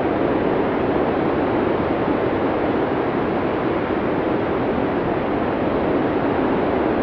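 Blizzard wind sound effect: a steady, unbroken rush of storm wind, heaviest in the low-middle range, with no gusts or breaks.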